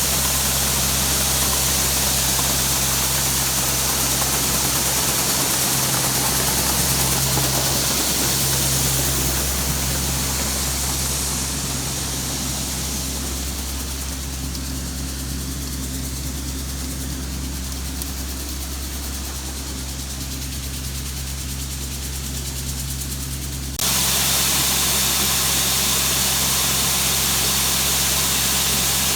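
Farm machinery engine running steadily at a constant speed under a broad hiss. The level eases down through the middle and jumps back up suddenly near the end.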